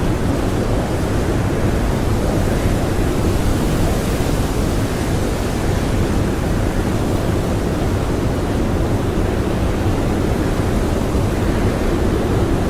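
Strong blizzard wind blowing in a steady, dense rush with a deep low rumble, unchanging throughout.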